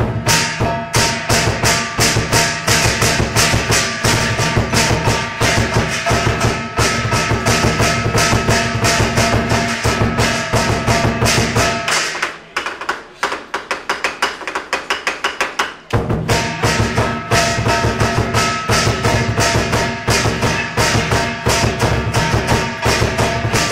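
Fast percussion music: rapid drum beats under ringing metal strikes. The low drum drops out for about four seconds in the middle while the lighter strikes carry on.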